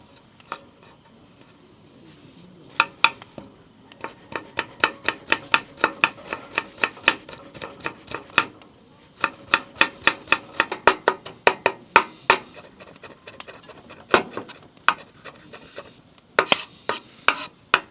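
A knife chopping on a wooden cutting board, in quick, even runs of about four to five strokes a second. There is a short break partway through and a few scattered strokes near the start and end.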